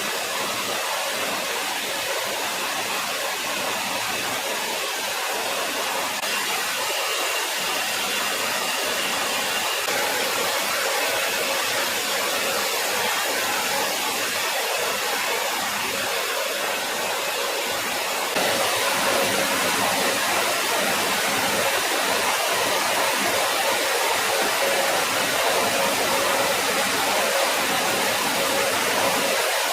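Steady, loud rushing roar of jet engines with a faint high whine, a little louder about two-thirds of the way through.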